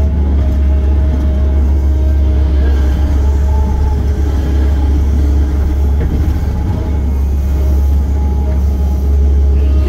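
Heavy construction machine's diesel engine running steadily, a loud, deep constant drone with no revving.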